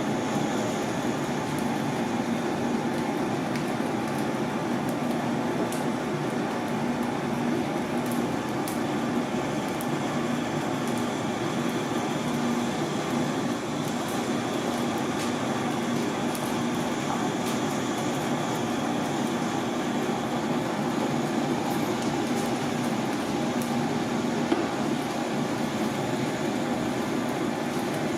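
Steady machine hum at an even level, with two faint steady tones and scattered light clicks.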